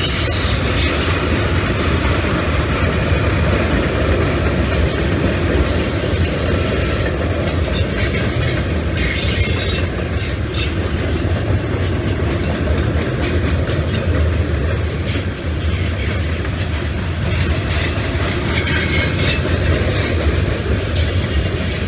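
Freight train cars rolling past: a steady low rumble of steel wheels on rail with sharp clicks as wheels cross rail joints, and brief high wheel squeals now and then. The consist is tank cars, open hoppers and covered hoppers.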